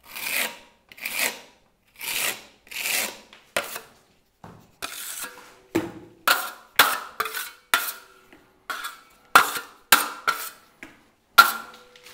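Plastering trowel spreading and smoothing the first coat of travertine decorative plaster in a series of rasping scrapes: about four long strokes at first, then quicker, sharper scrapes, some with a slight metallic ring.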